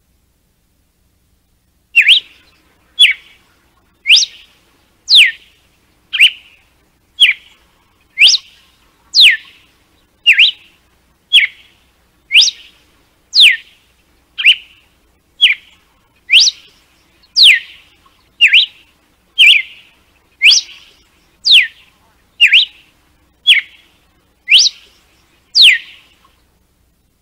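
Red-cowled cardinal (galo-de-campina) singing its 'açoite' (whip) song: an evenly paced series of sharp whistled notes, about one a second, many sweeping steeply down from high and the rest short and clipped. It starts about two seconds in and stops near the end.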